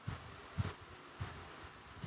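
Cloth wiping and rubbing on a small plastic washing-machine inlet filter, a soft rustling with a few dull bumps of handling, about three in two seconds.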